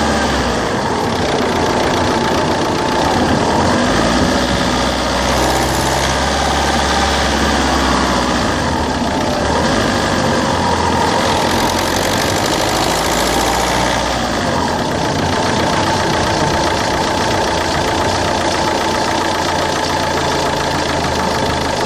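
Citroen C3's 1.4 HDi DV4TD four-cylinder turbodiesel engine running steadily. From about 5 to 14 seconds in, the sound turns brighter and hissier, then settles back.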